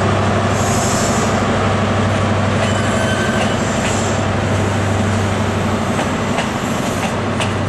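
InterCity 125 high-speed train, a diesel power car hauling Mk3 coaches, moving slowly past with a steady low engine hum. The wheels give a few sharp clicks over the rail joints.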